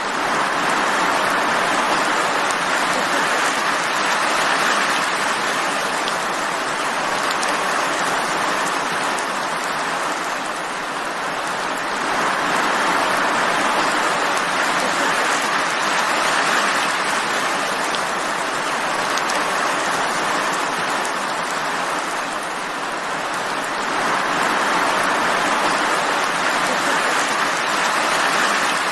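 Steady rain falling, an even hiss that swells and eases slowly about every twelve seconds.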